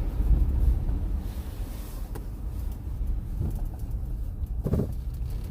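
Steady low rumble of a car on the move, with a brief short sound about three quarters of the way through.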